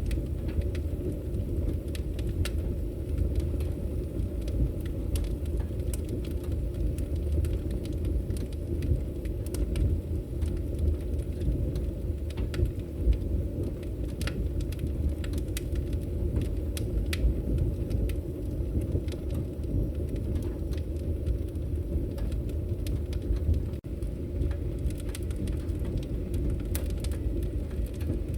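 Wood fire burning in a fireplace: a steady low rush of flames with scattered sharp crackles and pops from the burning wood.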